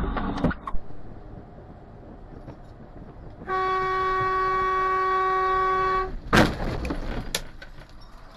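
A single steady pitched tone with many overtones, held for about two and a half seconds and stopping abruptly, followed by two sharp knocks a second apart.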